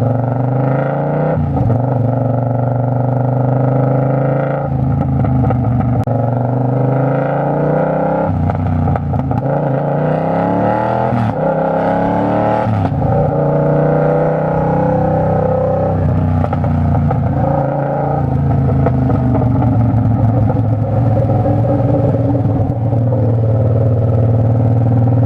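Naked sport bike's engine accelerating through the gears, its pitch climbing and dropping back at each upshift several times, then running at a steady pitch while cruising.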